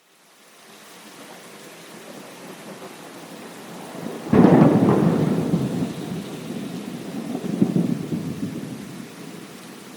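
Thunderstorm: steady rain hiss fades in from silence, then a sudden loud thunderclap about four seconds in rolls into rumbling thunder, with a second swell of rumble a few seconds later before it dies back to the rain.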